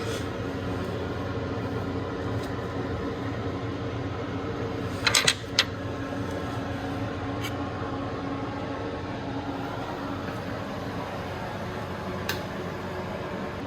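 Steady hum of a fan or similar machine running in a small room. A few sharp metallic clicks of hand tools on metal fall over it: a quick cluster about five seconds in and a single click near the end.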